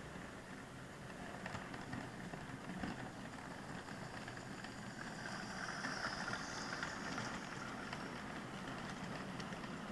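Model train running on its track, heard close up: a steady low hum and rumble of the running train with a few faint clicks of wheels over the rails.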